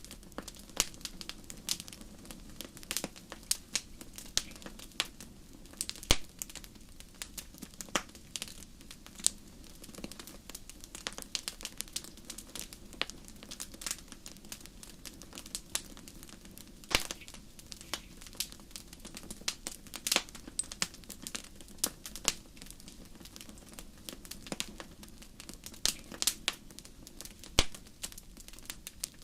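Fire in a fireplace crackling: dense, irregular snaps and pops over a low, steady rumble of the flames, with a few much sharper pops scattered through.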